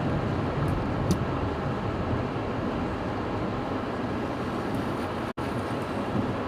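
Steady road and engine noise of a car being driven, with a brief dropout about five seconds in.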